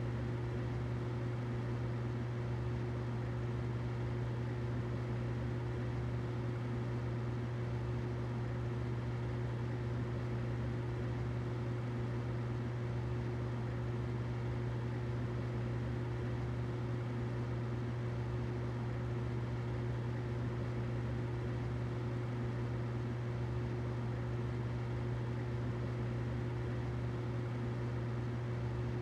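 Humidifier running steadily: a constant low hum with a fainter higher tone over an even hiss, unchanging throughout.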